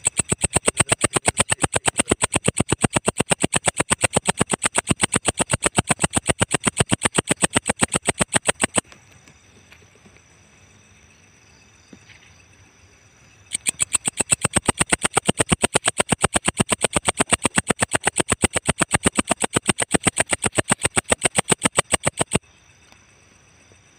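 Walang ecek bush cricket (katydid) singing: a loud, rapid, even train of sharp ticking pulses, in two bouts of about nine seconds each with a pause of about five seconds between them.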